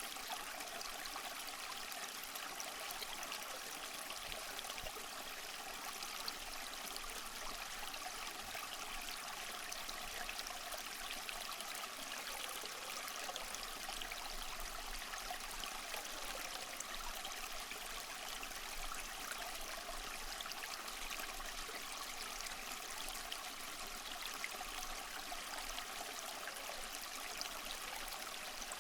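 Steady rushing, trickling water with an even, unbroken level and no distinct wave surges.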